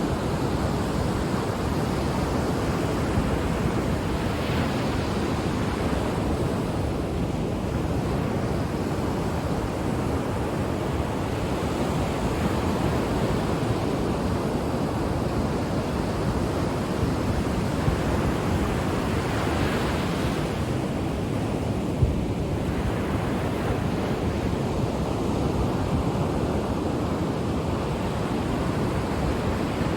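Ocean surf: a steady rush of waves on the shore, the hiss swelling as waves break about four seconds in and again around twenty seconds.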